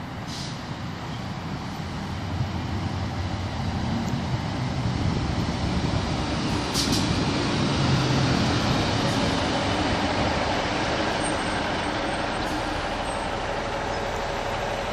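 Diesel multiple-unit train running at the station, its engine and wheel noise growing louder until about eight seconds in, then holding steady. A short sharp hiss about seven seconds in.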